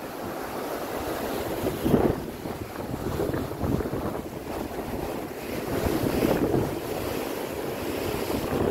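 Strong wind buffeting the microphone over the rush of sea waves beside a passenger ship under way. The noise swells and fades in gusts, with a brief loud gust about two seconds in.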